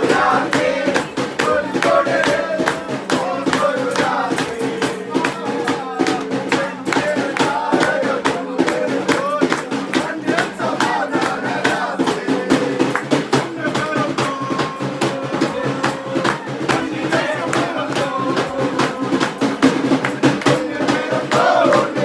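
A Christmas carol sung by voices with instrumental accompaniment and a steady percussive beat.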